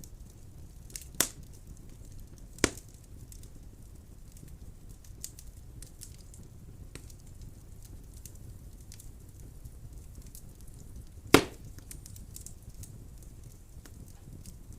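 Wood fire burning in a fireplace: a steady low rumble of flame with a run of faint crackles, broken by three loud sharp pops from the burning logs, twice early and once, loudest, after about eleven seconds.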